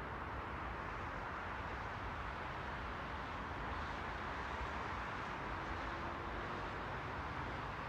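Steady white-noise hiss, even and unbroken, without rhythm or pitch. A faint low hum shows briefly about two-thirds of the way in.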